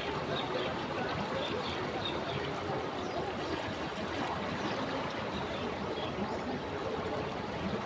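River water flowing steadily, a continuous rushing and trickling, with a few short high chirps over it.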